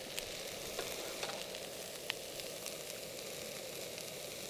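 Zucchini, bell pepper and onions sizzling steadily as they fry in olive oil, with scattered small pops and crackles.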